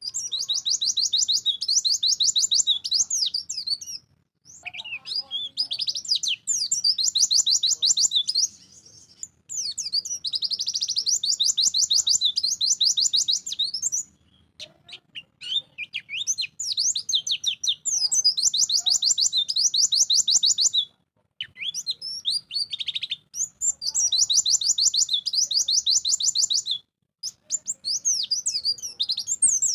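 A pleci (white-eye, Zosterops) singing energetically: long phrases of very fast, high trilled notes, broken by short pauses every few seconds.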